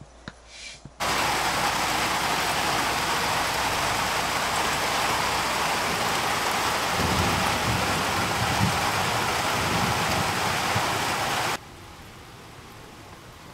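Heavy rain pouring down in a loud, steady hiss that cuts in about a second in, with a low rumble of thunder building from about seven seconds in. Near the end it falls away sharply to a quieter hiss.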